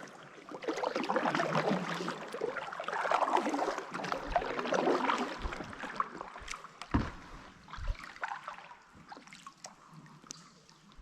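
Kayak paddle strokes splashing and dripping in still water, in swells that fade later. Two dull knocks come about seven and eight seconds in.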